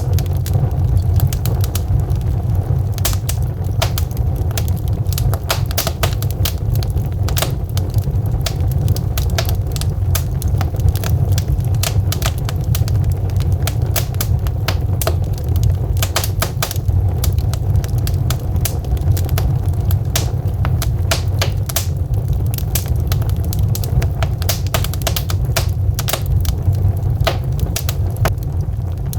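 Wood fire crackling in a fireplace: burning logs giving many irregular sharp pops and snaps over a steady low rumble of flame.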